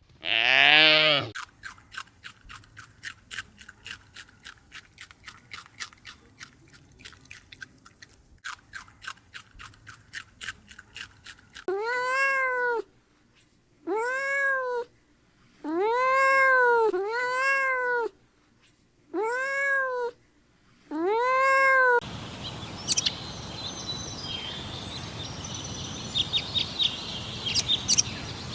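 Domestic cat meowing several times, each meow about a second long, rising then falling in pitch. Before the meows there is a long run of quick, light clicks; after them comes outdoor background noise with bird chirps.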